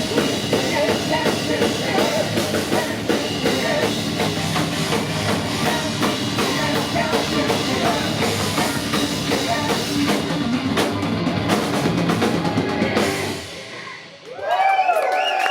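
Heavy metal band playing live, with a drum kit driving the song; the music stops abruptly about thirteen seconds in, and crowd cheering with whistles starts near the end.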